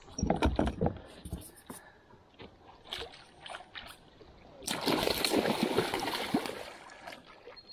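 Water splashing beside a kayak as a hooked Murray cod is fought and landed, with a few sharp knocks in the first second and a half. A longer, louder spell of splashing starts about five seconds in and lasts about two seconds.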